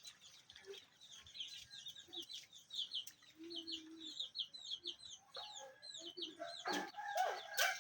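Chickens calling, with a rapid run of high, falling chirps, about three a second, and a few short lower clucks. Two sharp knocks come near the end.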